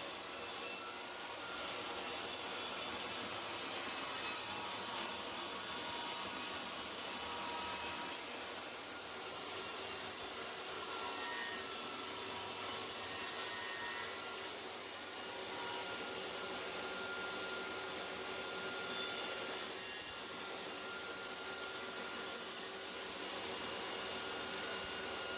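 Power saw cutting salvaged pine boards to size, running steadily, with short dips between cuts.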